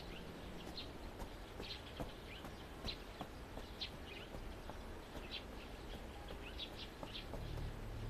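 Small birds chirping: short, high calls every half second or so over a faint steady background hush.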